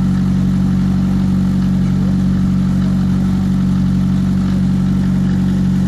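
Classic Lada (Zhiguli) 1.6-litre four-cylinder engine idling steadily, with an even, unchanging note.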